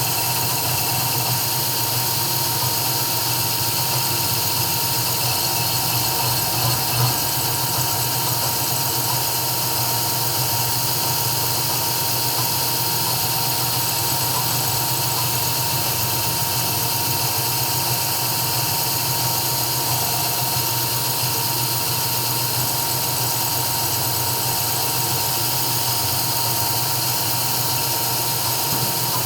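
CNC 3040 engraving router running: a steady high whine from the spindle over a low hum, unbroken, with one small knock about seven seconds in.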